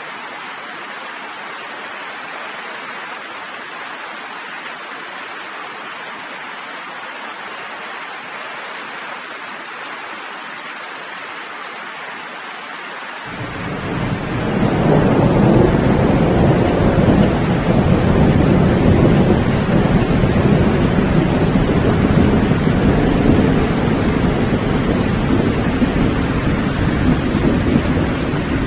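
Steady rain hissing, then about halfway through a long, deep rumble of thunder swells in over it, louder than the rain, and keeps rolling.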